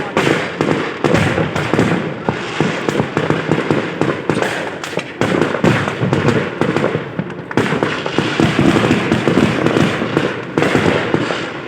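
Fireworks display in a continuous barrage: many rapid, overlapping bangs and crackles with no break.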